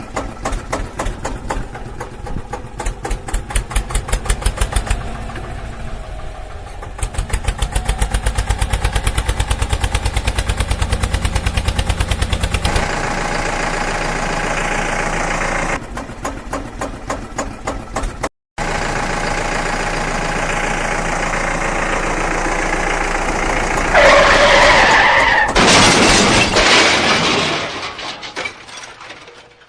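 Tractor engine chugging in an even beat, its pace and tone changing abruptly at several cuts, with a brief drop-out in the middle. A louder, rough noisy stretch comes near the end, then the sound fades away.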